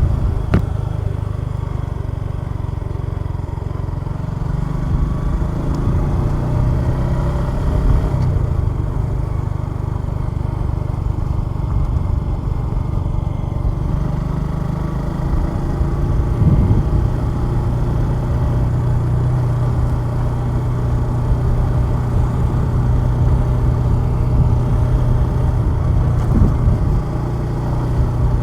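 Suzuki GSX150SF's single-cylinder engine running steadily under way, its pitch changing briefly about two-thirds of the way through and again near the end.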